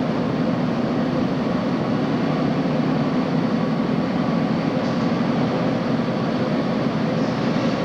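Subway train running steadily with an even rumble and a faint steady whine, no clicks or squeals standing out.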